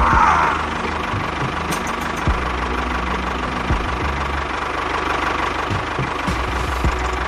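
Small engine running steadily with a pulsing low chug, with a brief scrape right at the start and a few knocks.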